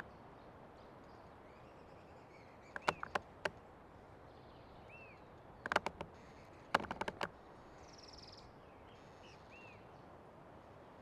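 Old tree creaking in three short bursts of sharp creaks, about three, six and seven seconds in, over a steady faint forest background. Small birds chirp softly in between.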